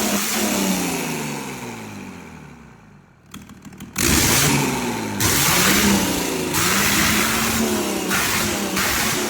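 A 500 hp engine's revs fall away over about three seconds until it is almost quiet, with a few faint ticks. About four seconds in it comes back suddenly and loud and is revved again and again, its pitch rising and falling.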